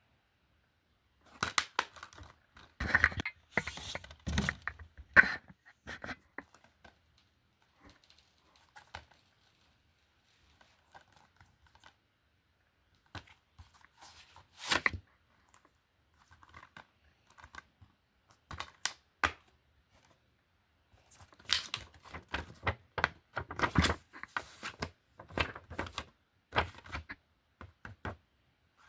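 DVD and Blu-ray cases being handled: bursts of plastic clicks, knocks and rustling, with quiet pauses between them.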